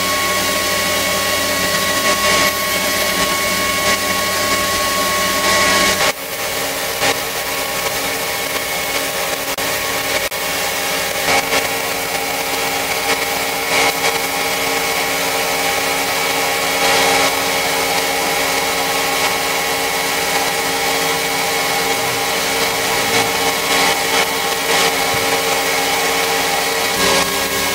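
An electric power tool's motor running steadily under load, with a constant whine and grinding hiss. Its low hum drops off abruptly about six seconds in and comes back near the end.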